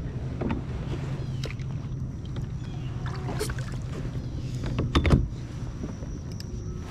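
Handling sounds in a fishing kayak: small clicks and rubs over a low steady hum, with one loud knock about five seconds in.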